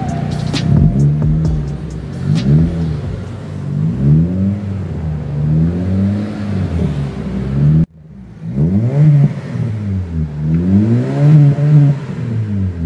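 Honda Mobilio's four-cylinder engine revved again and again through an aftermarket racing exhaust, its pitch rising and falling every couple of seconds. The sound breaks off suddenly about eight seconds in, and then the revving picks up again.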